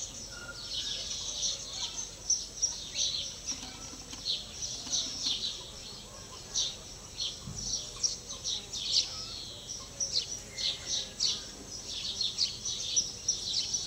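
Birds chirping and singing: a busy, irregular run of short, high-pitched calls.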